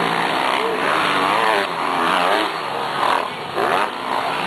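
Several motocross bikes racing, their engines revving up and down as they accelerate and shift, with overlapping engine notes that rise and fall in pitch.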